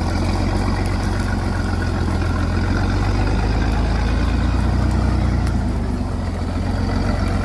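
Truck engine running loudly and steadily with a deep, even note.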